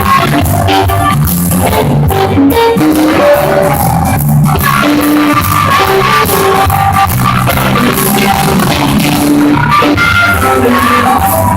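Band playing amplified blues-rock on stage, with a drum kit and guitar.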